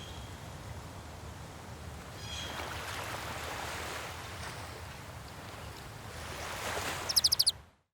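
Steady rushing noise of the wind-or-surf kind, with a short high call about two seconds in and a quick run of about five high chirps near the end, then it cuts off suddenly.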